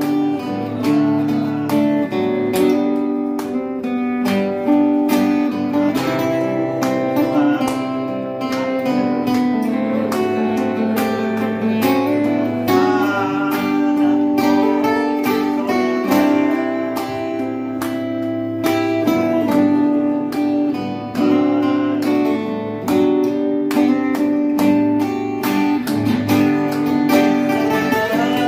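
Two guitars playing a duet, a melody with improvised fills over a picked and strummed accompaniment.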